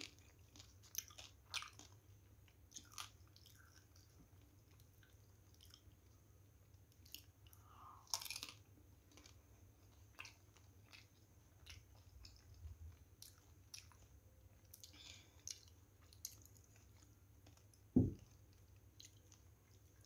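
Faint, close-up chewing of soft steamed momos (dumplings), with small wet clicks and smacks of the mouth. A single dull low thump near the end is the loudest sound.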